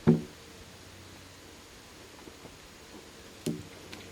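Two sharp knocks, each with a brief ringing tone, the first loud right at the start and a weaker one about three and a half seconds later, over a faint steady hiss.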